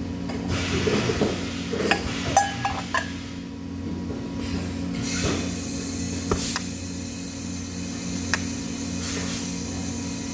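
Steady machine hum with scattered clinks and knocks of metal being handled.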